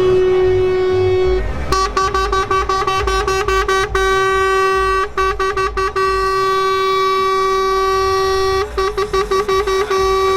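Truck air horns: one held blast, then a different multi-tone horn sounding in a rapid string of short toots, one long blast, and more quick toots near the end.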